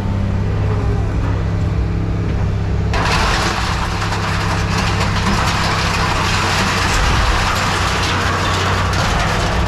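Heavy scrap-yard machinery running with a steady low engine hum; about three seconds in, a loud rushing noise starts abruptly over it and keeps on.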